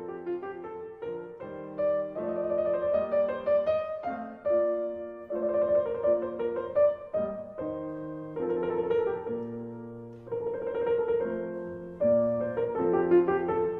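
Solo piano music playing slow, sustained chords.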